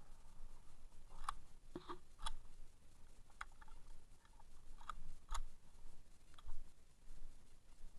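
A handful of light, scattered clicks and small knocks, about seven over several seconds, from a gun or gear being handled after shooting.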